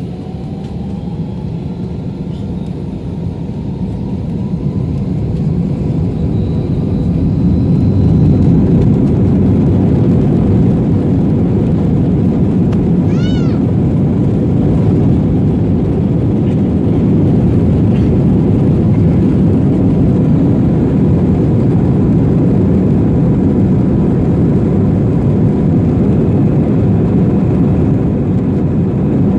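Airliner cabin noise inside an Airbus A321-231: its IAE V2500 engines and the airflow make a heavy steady rush that grows louder over the first eight seconds or so and then holds level. Near the middle comes one brief high squeak.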